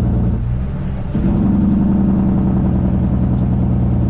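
Straight-piped diesel truck engine under load. Its sound drops back briefly about half a second in, then pulls strongly again about a second in.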